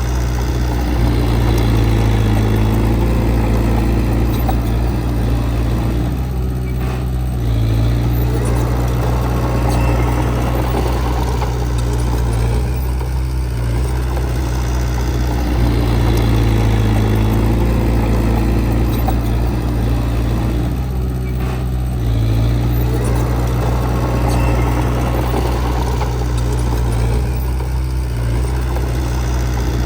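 Diesel engine of heavy earthmoving equipment running steadily, its sound easing briefly and building again every several seconds as the load changes.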